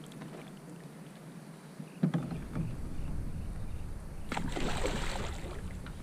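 A sharp knock on the kayak's hull about two seconds in, followed by low rumbling handling noise and a short burst of water splashing near the end.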